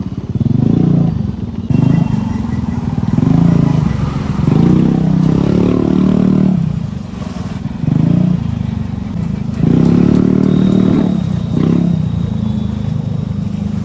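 Motorcycle engine running under the rider while under way, its note swelling and rising about six times as the throttle is opened and eased off, over a steady low rumble.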